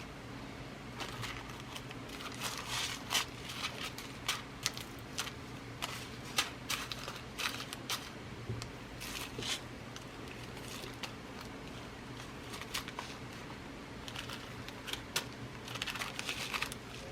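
Glass seed beads and their packaging being handled: irregular rustling with light, sharp clicks, coming in bunches with quieter gaps between.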